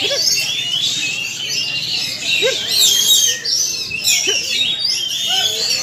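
Many Oriental magpie-robins (kacer) singing at once in a songbird contest, a continuous dense tangle of fast whistled phrases, with a crowd's voices calling underneath.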